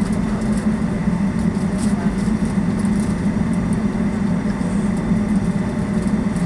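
Boeing 757-200's Pratt & Whitney PW2037 engines and airflow heard from inside the cabin: a steady, loud drone with a strong low hum.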